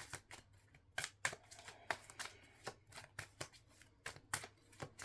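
A deck of tarot cards being shuffled by hand: irregular sharp card snaps and riffles, a few each second.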